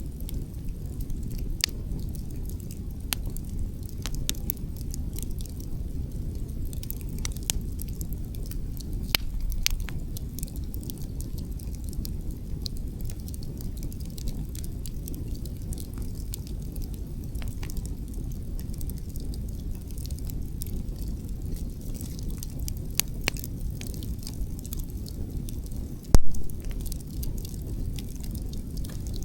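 Wood campfire crackling, with scattered sharp snaps and pops over a steady low rumble of wind; one louder crack near the end.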